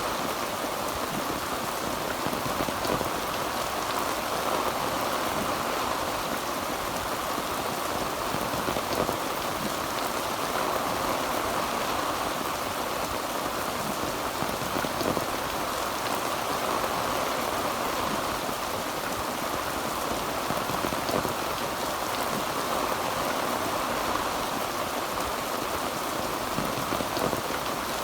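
Heavy rain falling steadily on a tin roof: a dense, even patter with scattered individual drop hits.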